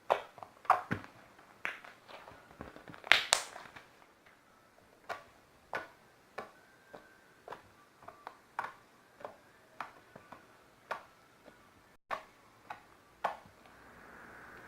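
Fluffy slime being squeezed and kneaded by hand, making sharp wet clicks and pops. The loudest pops come in the first few seconds, then they come irregularly about once or twice a second.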